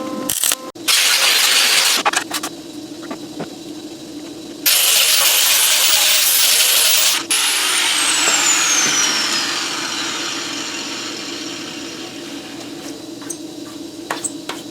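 Handheld power grinder run in two bursts, a short one about a second in and a longer one of about two and a half seconds near the middle. After the second burst its whine falls steadily as the disc spins down. A steady hum and a few clicks sit underneath.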